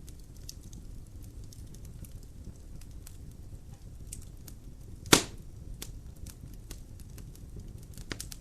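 Wood fire burning in a fireplace: a low steady rumble with scattered small crackles, one loud sharp pop from a log about five seconds in, and a couple of smaller pops near the end.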